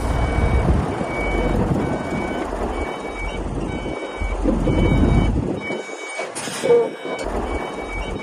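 Heavy construction machine's reversing alarm beeping about once a second over a loud diesel engine rumble that swells and eases. A brief sharp noise comes about six and a half seconds in.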